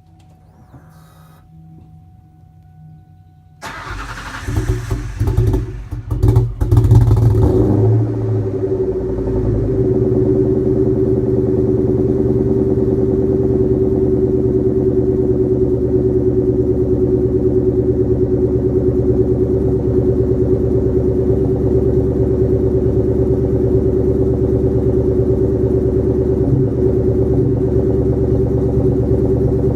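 Supercharged Ford Mustang Mach 1 with a Borla Stinger exhaust on a cold start: it cranks and catches about four seconds in, flares with a few loud uneven surges, then settles into a steady idle.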